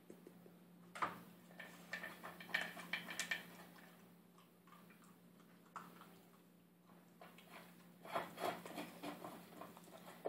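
Puppy eating from a food bowl: bursts of quick clicks and crunches as its mouth works the food against the bowl, one about a second in and another near the end, over a faint steady hum.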